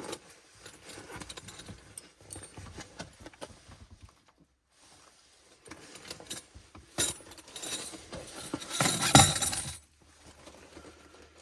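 Metal parts of a small portable fire pit clinking and rattling as they are handled and set up, with a louder clatter about nine seconds in.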